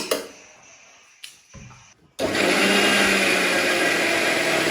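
An electric kitchen blender starts about two seconds in and runs at a steady, loud whir, blending the soup achar for momo. A couple of light knocks come before it.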